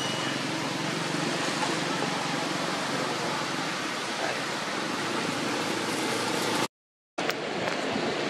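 Steady hiss of falling rain, broken by a brief silent gap about seven seconds in.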